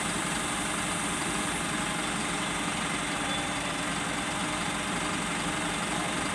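Engine of an Isuzu crane truck idling steadily, an even unbroken hum.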